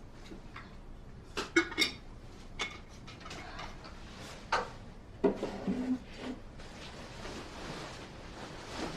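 A handful of sharp, irregular clicks and clinks of hard objects knocking together: a cluster of them about one and a half seconds in, single ones near 2.5 and 4.5 seconds, and a busier run just after 5 seconds.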